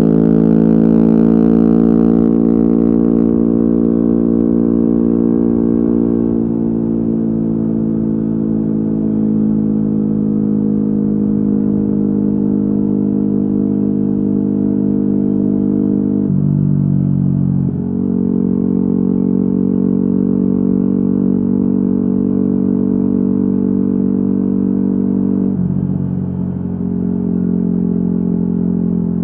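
Yamaha WR250R's single-cylinder four-stroke engine running through an FMF Q4 exhaust, holding steady revs while riding. The engine speed dips briefly twice, about two-thirds of the way through and again near the end, then picks back up.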